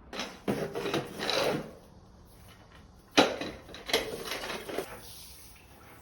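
Household handling sounds: two short bursts of knocks and clatter, the second opening with a sharp knock about three seconds in.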